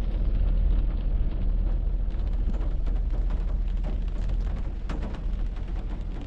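Heavy rain falling: a dense, steady low rumble with many sharp drop ticks scattered through it.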